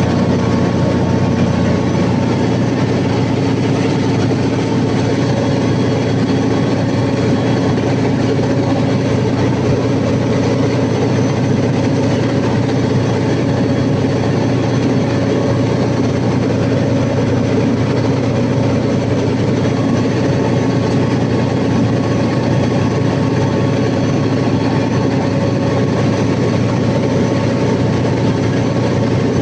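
Cummins KTA50 V16 turbo-diesel generator engine running steadily during a 750 kW load test after a general overhaul: a loud, even drone with a steady hum that does not change.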